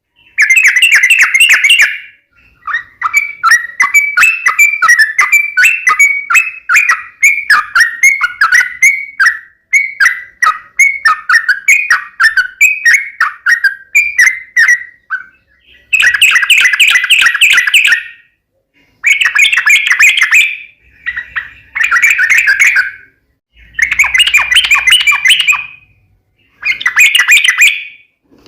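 Sooty-headed bulbul (trucukan) singing loud, harsh, chattering phrases in fighting mode. A long run of quick separate notes is followed by several dense bursts of about two seconds each, with short pauses between them.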